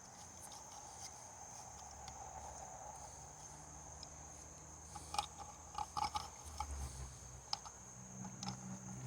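Faint, steady high insect trill, typical of crickets. Scattered small clicks and knocks come in the second half, from parts being handled.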